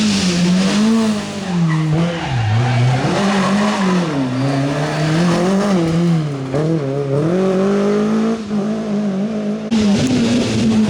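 Rally car engine revving hard and easing off again and again, its pitch rising and falling repeatedly.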